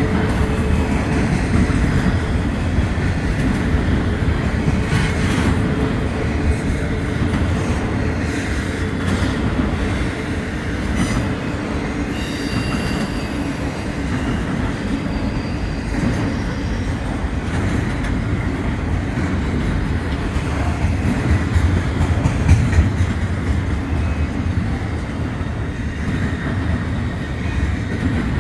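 Freight train cars rolling past on the rails: a steady, heavy rumble of wheels on track, with scattered clicks from the rail joints and a faint, brief high wheel squeal about twelve seconds in.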